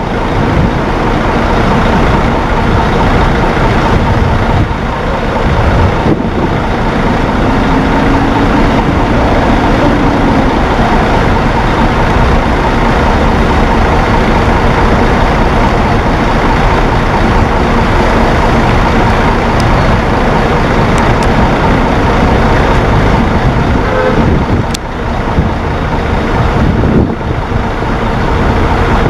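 Scania K410iB coach on the move, heard from inside the cabin: loud, steady engine drone and road noise, with a faint hum held under it and a short dip in level a little before the end.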